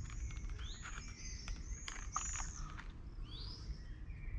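Bird chirping: a quick series of short, high whistled calls, each arching up and falling away or sliding upward, bunched in the first half with one more late on. Scattered light clicks run alongside.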